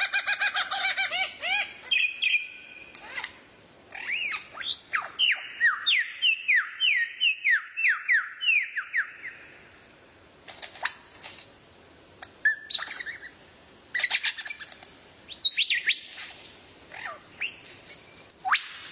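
A songbird singing in varied phrases. A fast trill of repeated notes opens it. A few seconds in comes a run of about a dozen quick down-slurred whistles. After a short pause come scattered sharp chirps and whistles.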